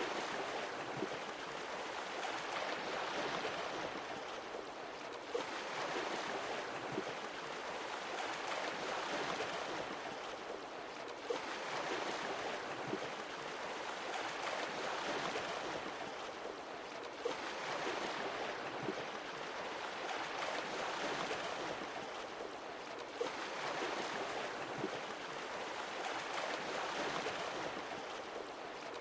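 Sea waves washing in and drawing back in a slow swell about every six seconds, with a short tick near the start of each surge.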